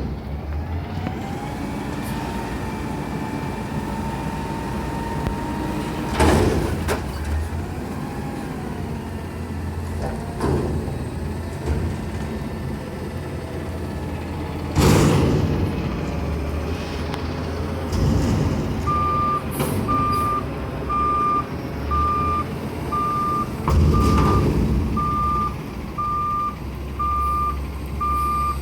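Waste Management garbage truck's diesel engine running while it picks up a dumpster, with a whine that rises and holds for several seconds and three loud bangs spaced several seconds apart. About two-thirds of the way through its reversing alarm starts beeping steadily, about one and a half beeps a second.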